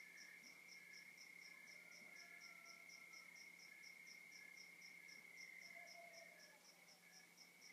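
Faint night chorus of crickets: one steady unbroken trill, another chirping in quick even pulses about four a second, and a slower pulsing call about once or twice a second.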